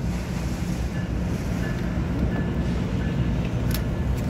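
NJ Transit multilevel passenger train rolling past the platform: a steady low rumble of wheels and cars, with faint brief high tones and a sharp click near the end.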